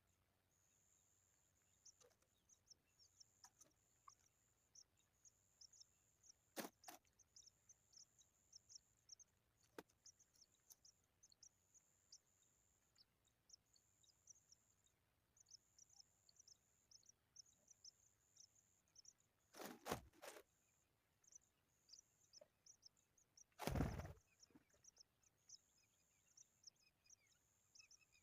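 Faint, very high-pitched chirping, repeated in short trills of about a second each. There are a few dull thumps, the loudest about three-quarters of the way in.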